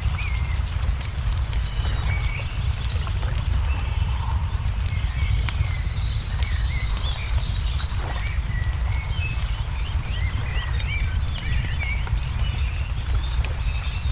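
Wood fire crackling with scattered pops, small birds chirping and trilling, over a steady low rumble that is the loudest part of the mix.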